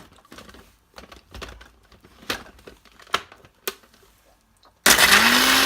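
Scattered clicks and knocks of Bourbon biscuits going into a mixer-grinder jar, then near the end the electric mixer grinder switches on loudly. Its motor rises quickly in pitch and then holds steady as it grinds the biscuits to powder.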